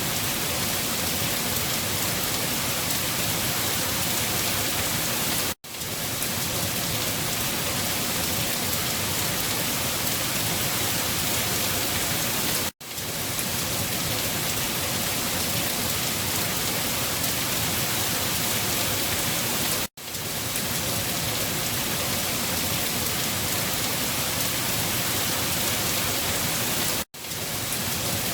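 Steady rain falling, as an even hiss. Four times, about seven seconds apart, it cuts out for a moment and fades straight back in.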